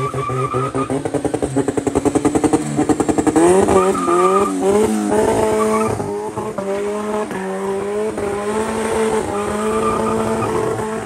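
Turbocharged Toyota 5A four-cylinder engine revving hard. It pulses rapidly, about eight times a second, then rises in pitch around four seconds in and holds a high, steady note.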